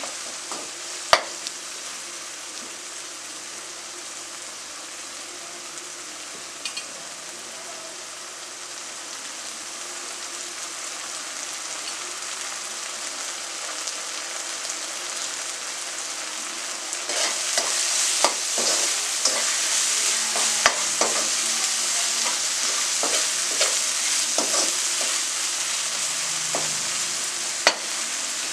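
Onion, chilli and ground-spice masala sizzling in oil in a non-stick wok, with a metal spatula scraping and tapping the pan as it is stirred. The sizzle grows louder about halfway through, and the spatula clicks come thickest in the last third.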